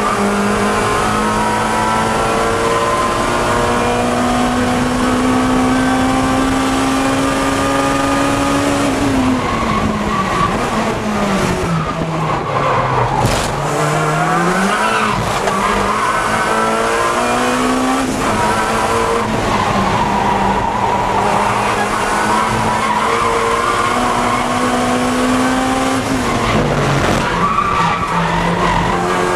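Acura Integra Type R race car's engine under hard acceleration, its pitch climbing through the gears in repeated rising sweeps. About twelve seconds in, the pitch drops low, as for braking into a slow corner, then climbs again.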